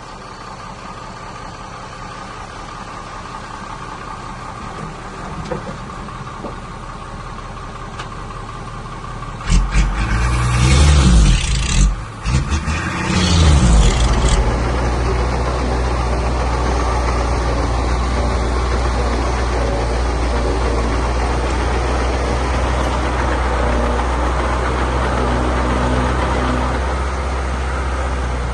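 Heavy construction machine's diesel engine running close by, its steady drone getting louder. About ten seconds in it revs hard for some four seconds, with a loud rush of noise, then settles into a steady, louder low drone.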